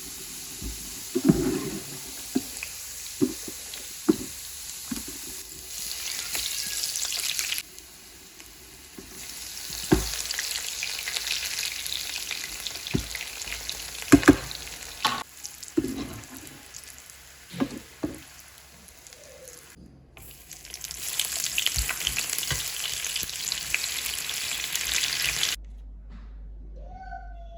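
Food sizzling in a frying pan, with a utensil knocking and scraping against the pan. The hiss swells and drops off abruptly several times.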